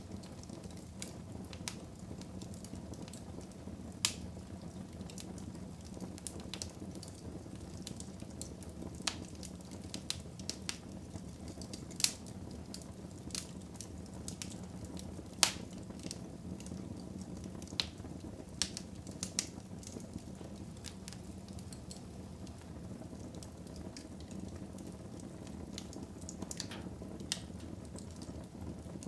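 Wood fire burning in a fireplace: a steady low rumble of flames with irregular crackles and a few louder pops.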